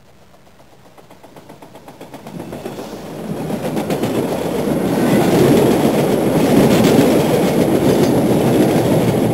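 A train running on rails with a rhythmic clickety-clack of wheels over rail joints. It grows steadily louder over the first five seconds, as if approaching, then runs on at a steady level.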